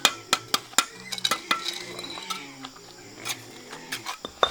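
Metal tool clinking and tapping against brick: a quick run of sharp clinks in the first second and a half, then a few scattered taps.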